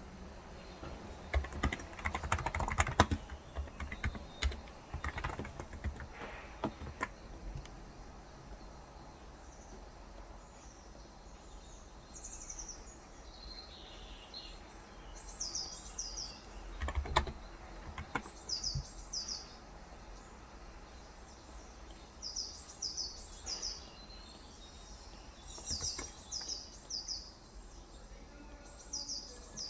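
Typing on a Cox Endeavour electro-capacitive (35 g, tenkeyless) keyboard in short bursts of keystrokes, mostly in the first several seconds, with a few more keystrokes midway. From about twelve seconds on, a bird chirps repeatedly in short high notes, often in quick clusters of two or three.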